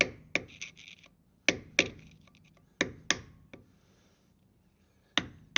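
Hammer striking a screwdriver to bend over the metal locking tab at a Land Rover Defender 90's wheel hub, which locks the hub nut in place. The sharp metal-on-metal blows come in quick pairs about a second and a half apart, with a lighter tap in the middle.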